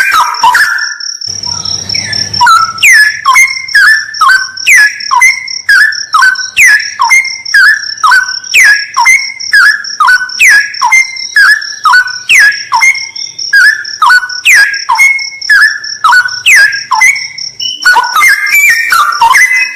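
Straw-headed bulbul (cucak rawa) singing: a long run of loud whistled notes, each sliding downward, about two a second, breaking into a quicker jumbled warble near the end. A steady high insect trill runs underneath.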